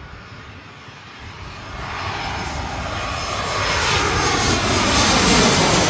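Airbus A320 jet airliner on landing approach, its engine noise growing steadily louder as it comes in overhead.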